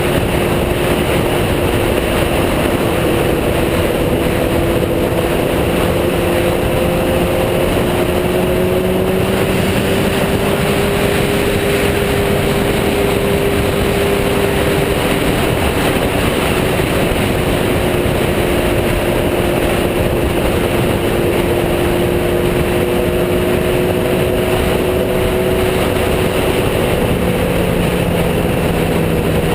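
Motorcycle engine running at a steady cruising speed, its pitch drifting gently up and down, under loud steady wind and road noise as the bike rides along.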